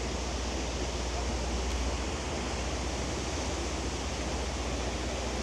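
Waterfall cascading down a rock wall: a steady rushing of falling water, with a low steady hum beneath.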